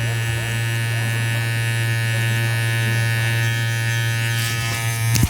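Cordless hair clipper running at a steady buzz while cutting hair. It cuts off abruptly near the end.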